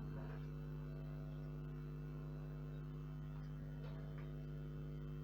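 Steady electrical mains hum, a low buzz with many even overtones and no other clear sound.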